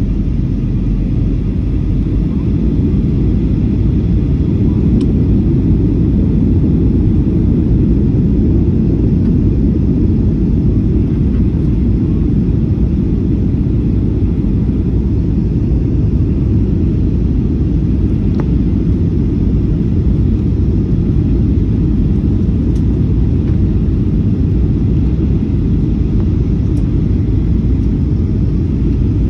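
Steady low rumble of an airliner's engines and airflow heard inside the passenger cabin, even and unbroken.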